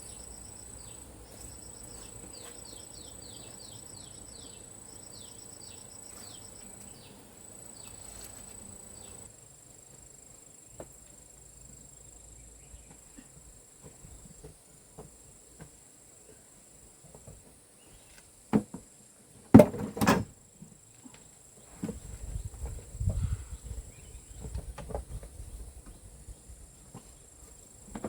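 Crickets chirping in short repeated trills over a steady high insect whine. About two-thirds of the way through come a few sharp knocks, followed by irregular low thumps and rustling.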